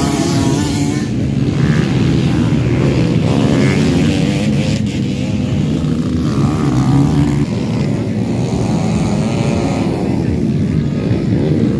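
Dirt bike engines running at a race, revving up and down with shifting pitch as the bikes ride the track.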